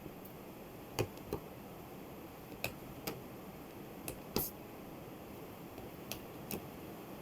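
A handful of light, sharp taps and clicks, about eight, scattered irregularly over a faint steady hiss, the loudest one about four seconds in.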